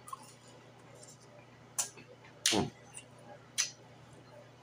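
Close-miked eating sounds of a crispy fried pork chop being chewed: three sharp crunching and mouth-smacking clicks about a second apart. The loudest, in the middle, trails off into a brief falling sound.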